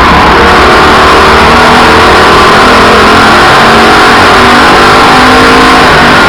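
Race car engines running and revving on a short oval track. The recording is overloaded and distorted, with the level pinned at the top throughout.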